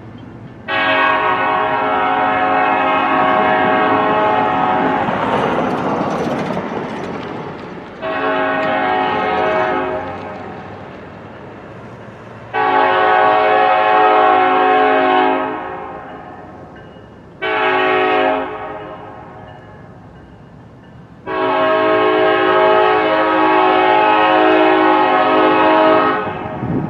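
Diesel locomotive horn sounding five blasts over the rumble of a passing train, the last four in the long, long, short, long grade-crossing signal.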